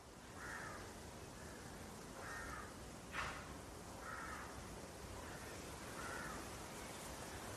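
Faint, repeated bird calls: about five short calls spaced a second or two apart. A single sharp click about three seconds in is the loudest sound.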